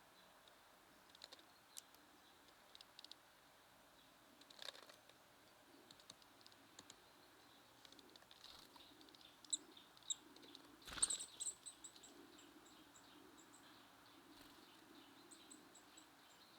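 Small songbirds at a seed feeder, faint: scattered light taps and clicks, a few thin high chirps, then a sharp click about eleven seconds in followed by a run of short high notes that fades away over a few seconds.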